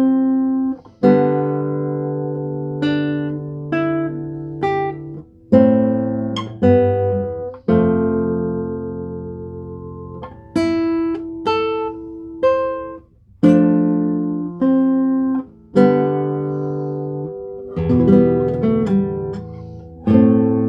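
Guitar playing slow chords, each struck and left to ring out and fade before the next, with a busier run of quicker plucked notes near the end.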